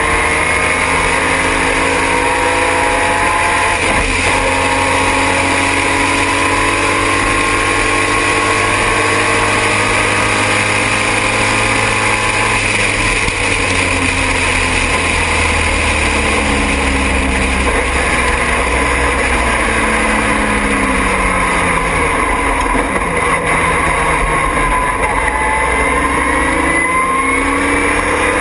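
Triumph TR6 race car's straight-six engine at racing speed, its pitch climbing through the revs and dropping back again and again as it changes gear and slows for corners, over a steady rush of wind and road noise. Through the middle the pitch mostly falls, and it climbs again near the end.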